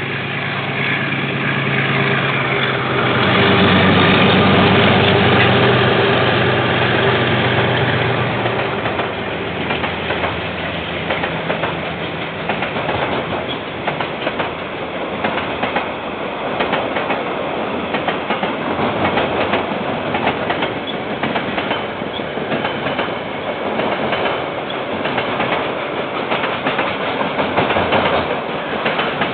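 A KiwiRail diesel locomotive passes, its engine throbbing loudest a few seconds in and fading by about eight seconds. A long string of rail wagons follows, rolling by with a steady clickety-clack of wheels over the rail joints.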